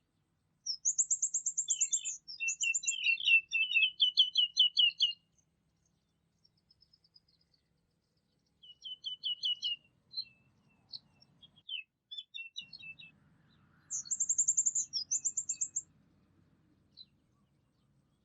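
Songbirds singing in bursts of rapid, high trills and chirping phrases, with pauses between: one long phrase starting about a second in, another in the middle, and a shorter one near the end.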